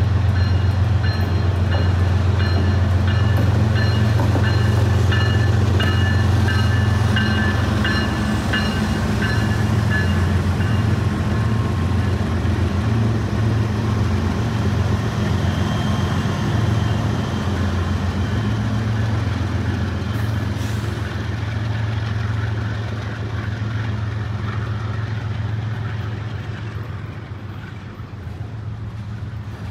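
CSX freight train rolling past: a steady low rumble of wheels and cars, with thin high-pitched squealing for about the first ten seconds. The sound fades gradually toward the end.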